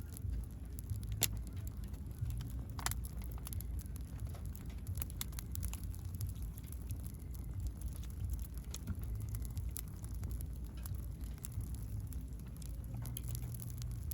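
Firewood burning in a round camping fire pit, crackling with scattered sharp pops over a low steady rumble; the loudest pops come about a second and about three seconds in.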